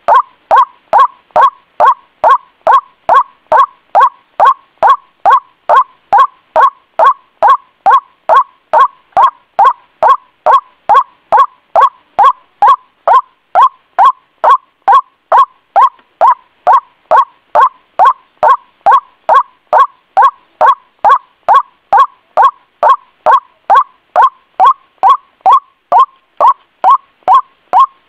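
White-breasted waterhen's ruak-ruak call, used as a bird-trapping lure call. Short calls repeat in an unbroken, even rhythm of about two a second.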